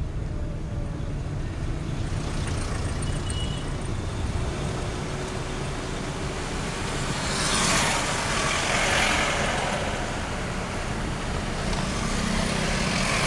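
Road traffic: a steady engine rumble, with vehicles passing by about halfway through and again near the end.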